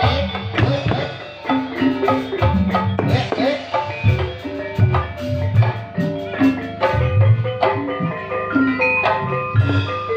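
Live ebeg dance music: a gamelan-style ensemble of tuned mallet percussion playing short ringing melodic notes over steady hand-drum strokes.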